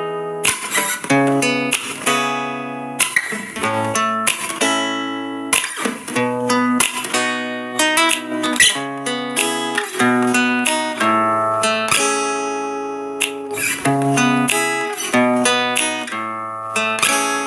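Background music: acoustic guitar played with plucked and strummed chords, each note ringing and dying away.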